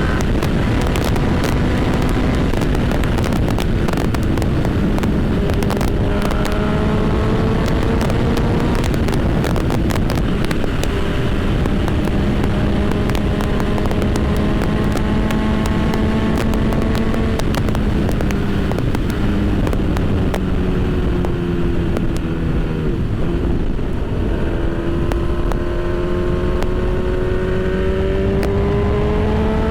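Honda CB1000 inline-four motorcycle engine running while riding, its pitch climbing slowly under acceleration and dropping again several times, over a steady rush of wind and road noise.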